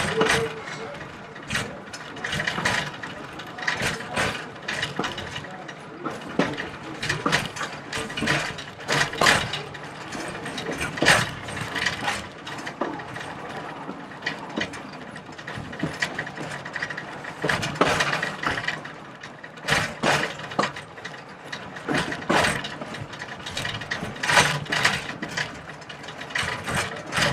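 Heritage train running along the track: irregular clicks, clanks and rattles from its wheels and running gear, about one or two a second, over a steady running noise.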